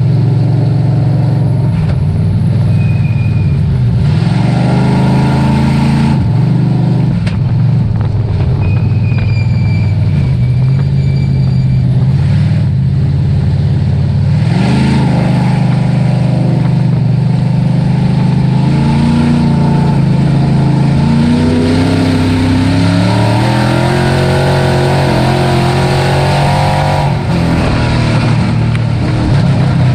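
Dirt-track race truck engine running hard under racing load. Its pitch falls and climbs again several times as the throttle is lifted and reapplied, over a steady rush of wind and tyre noise.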